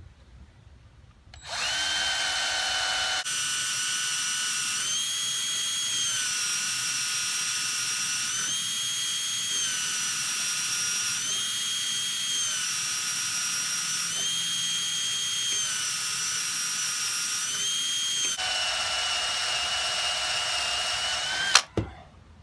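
Electric drill running under load, boring a pilot hole into a snapped-off bolt. The motor's whine starts about a second and a half in and sags and recovers in pitch every couple of seconds as the bit bites. It stops about a second before the end with a sharp click.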